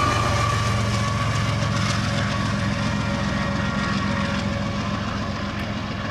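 Union Pacific diesel locomotive running as the rear distributed power unit of a double-stack container train as it passes and moves away. Its engine drone and a high steady whine sound over the rolling noise of wheels on rail, slowly fading.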